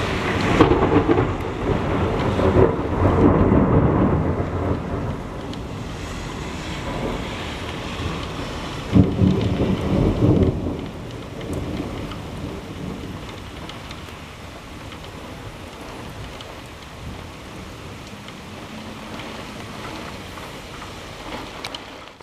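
Thunder from a close lightning strike rolling in several loud peaks, with a sharper, louder clap about nine seconds in, then a long fading rumble. Rain falls steadily underneath.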